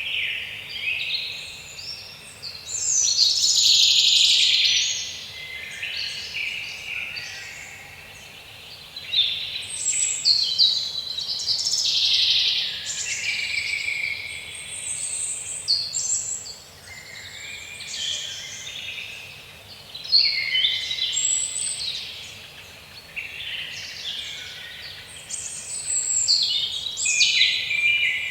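Birdsong chorus: several songbirds singing and chirping over one another, dense and continuous, with a faint steady hiss of background noise.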